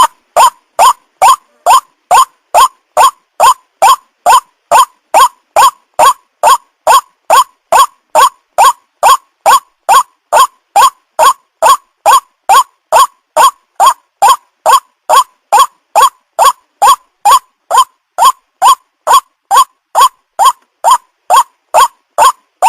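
White-breasted waterhen calling: an unbroken string of short, harsh "ruak" notes, a little over two a second, each rising in pitch, as used to lure the birds.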